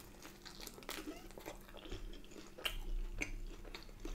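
Close-up eating sounds: biting into and chewing a slice of baked potato from a corned beef hot pot, heard as scattered short, moist mouth clicks.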